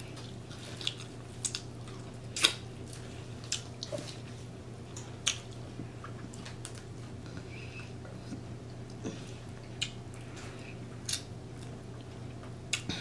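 A person eating close to the microphone: wet chewing, lip smacks and finger-licking clicks at irregular intervals, the sharpest about two and a half seconds in, over a steady low hum.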